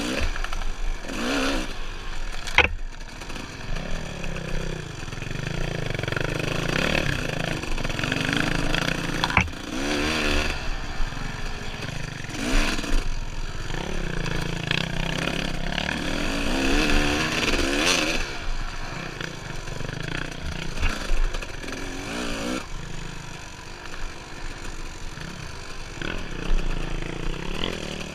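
Dirt bike engine revving up and down repeatedly while riding a rough trail, with a couple of sharp knocks from the bike over the terrain.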